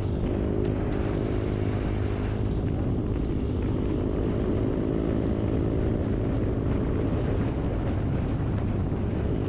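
Motorcycle engine running at a steady cruising speed while riding, under wind and road noise, picked up by a GoPro's built-in microphone.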